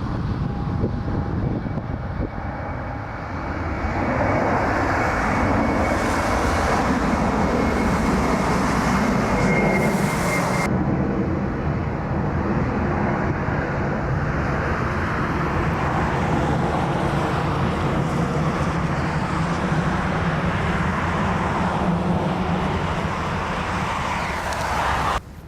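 Airbus A330 jet engines running loud and steady, with a thin high whine over the rush for the first ten seconds. The sound swells about four seconds in and cuts off abruptly near the end.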